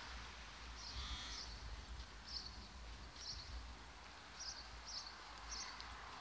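Small birds chirping in short, high notes every second or so over quiet outdoor background noise with a low rumble.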